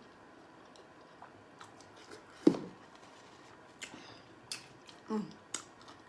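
Close-miked eating sounds of a person chewing seafood boil food: scattered wet mouth clicks and smacks, with one louder smack about two and a half seconds in.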